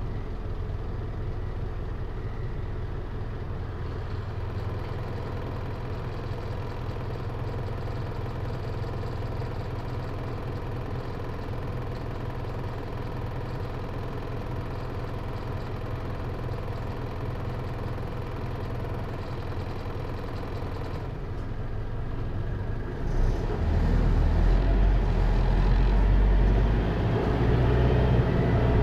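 Hino Liesse RX4JFEA microbus's J05C diesel engine idling steadily, heard from inside the bus. About 23 seconds in the engine speeds up and grows louder as the bus accelerates.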